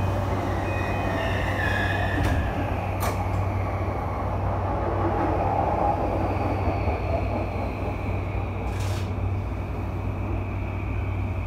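An electric commuter train running past on the adjacent track, heard from inside another train: a steady rumble with a low hum and a faint whine that falls in pitch midway.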